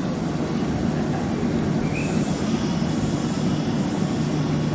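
Meitetsu electric train moving slowly along the station platform, a steady low rumble of its motors and wheels.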